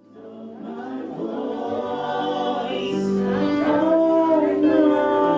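Choir singing a slow, sustained song, fading in from silence at the start and growing louder.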